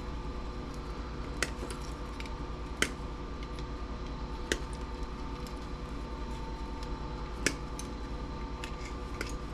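Side cutters snipping components and wires off a CRT TV circuit board: four sharp snips a second or more apart, with fainter clicks between them, over a steady hum.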